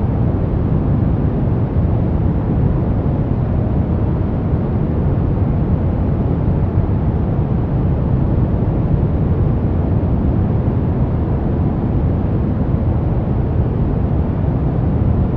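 Brown noise: a steady, deep rushing hiss with most of its weight in the low end, without change or breaks.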